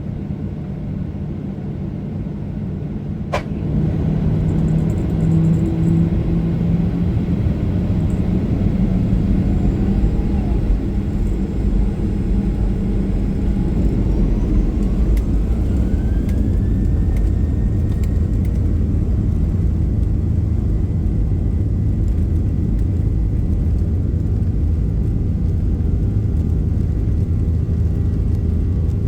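Boeing 737-800's CFM56 jet engines heard from inside the cabin, spooling up for takeoff over a steady low rumble. The sound grows louder a few seconds in, and a whine rises in pitch for several seconds, then holds steady.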